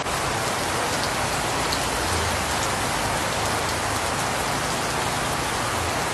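Heavy rain pouring down steadily, an even, dense hiss of drops.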